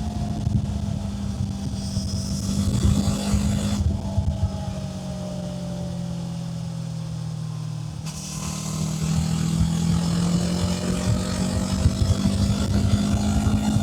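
Kawasaki Z500's parallel-twin engine under way on the road. About four seconds in it drops in level and its pitch falls as the throttle is eased off. About four seconds later the pitch climbs steadily and the engine gets louder as the bike accelerates again.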